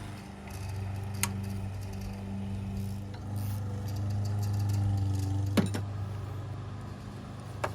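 Socket and ratchet loosening the spark plug in cylinder 2 of a 2006 Jeep Liberty: three sharp metallic clicks, the loudest midway, over a steady low hum.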